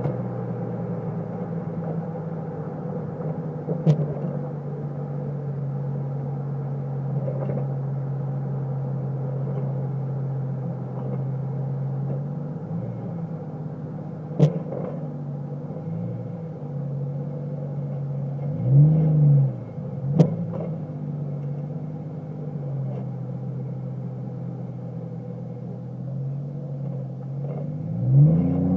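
Chevrolet Trailblazer's Magnaflow exhaust with a steady low drone, its pitch rising and falling briefly several times, most strongly about two-thirds through and again near the end. A few sharp knocks are heard along the way.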